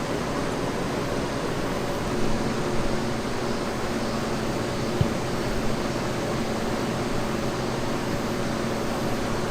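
Steady mechanical hum with a few faint held tones in it, like a fan or motor running, with a couple of light knocks around two to three seconds in and a short click about five seconds in.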